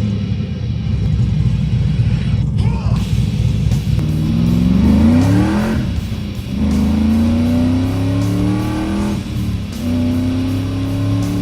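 Swapped LS6 V8 in a drift truck running low and steady, then revving hard with the engine pitch climbing three times as it pulls up through the revs.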